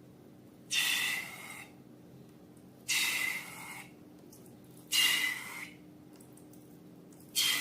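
Slime being squeezed, air squelching out of it in four short bursts about two seconds apart.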